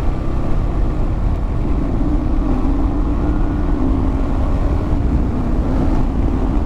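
Kawasaki KLR650's single-cylinder engine running steadily while the motorcycle is ridden along.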